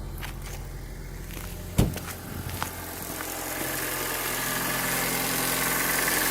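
2009 Honda Civic's four-cylinder engine idling steadily, with a single sharp click a little under two seconds in. A hiss builds gradually over the second half.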